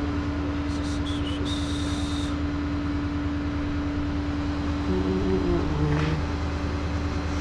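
Truck engine idling with a steady low hum, and a short high-pitched tone about a second in.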